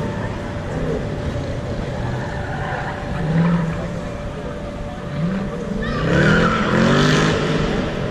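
A car engine working through an autocross run, dropping and rising in pitch as the driver lifts and gets back on the throttle. The hardest acceleration, near the end, is the loudest part, with a hiss of tyre noise over it.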